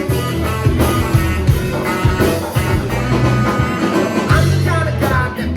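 Live rock band playing, amplified: drums keeping a steady beat under bass and electric guitar.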